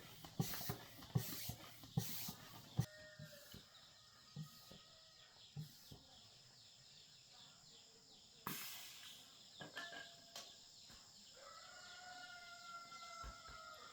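Four sharp knocks, a little more than one a second, during the first three seconds. Then chickens calling, with one long, drawn-out call near the end.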